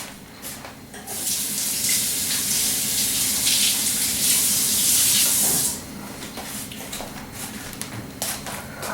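Water running from a kitchen tap for about five seconds, shut off abruptly, followed by a few light clicks and knocks.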